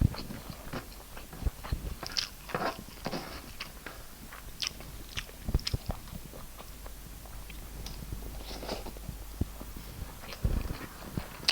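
Close-up eating sounds: irregular chewing, mouth smacks and small clicks as food is chewed, with no words.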